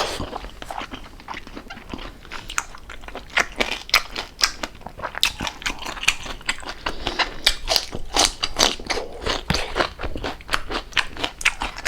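Close-up crunching and chewing of crispy-fried pork jowl: a dense, uneven run of sharp crackling crunches, several a second.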